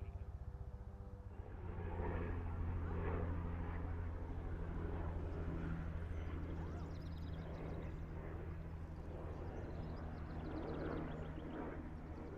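A steady low motor hum that grows louder about a second and a half in, with faint bird chirps about seven seconds in and again near the end.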